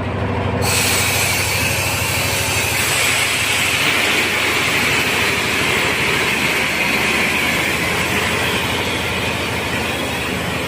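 A vehicle engine running steadily, with a loud hiss that starts suddenly about half a second in and slowly fades.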